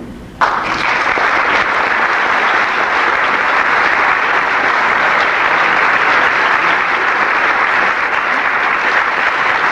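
Concert audience applauding. The clapping breaks out suddenly about half a second in and stays steady and full.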